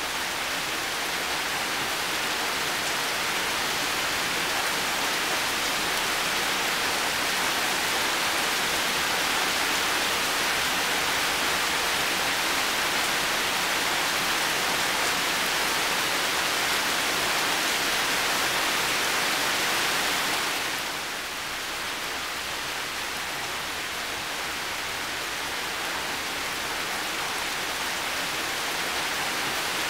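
Heavy rain falling steadily, a dense even hiss of many drops; it eases slightly about two-thirds of the way through, then slowly picks up again.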